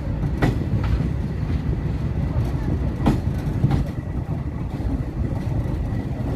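Passenger train running on the rails, a steady low rumble with a few sharp clacks of the wheels over rail joints.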